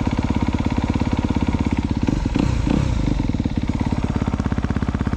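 Honda CRF250R's single-cylinder four-stroke engine idling steadily while it warms up from cold, its coolant temperature not yet climbing. A brief waver in the sound comes about two seconds in.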